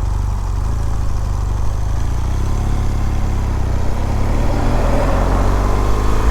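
BMW R1200GS boxer-twin engine running at low revs, the revs climbing over the second half.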